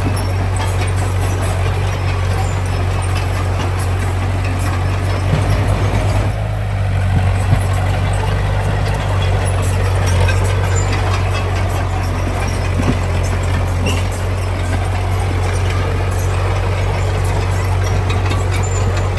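Heavy diesel construction machinery running steadily under load, a deep engine hum with scattered knocks and rattles over it, briefly easing about six seconds in.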